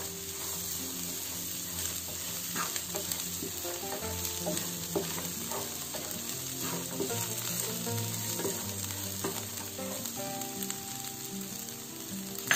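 Sliced shallots, green chilies and curry leaves sizzling steadily in hot oil in a frying pan, stirred now and then with a wooden spatula that scrapes the pan.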